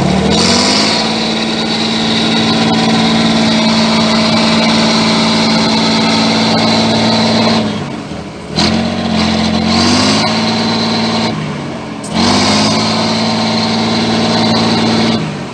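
Trial truck's engine revving hard three times. Each time it climbs quickly in pitch and holds at high revs for a few seconds, then drops away briefly. The first run is the longest.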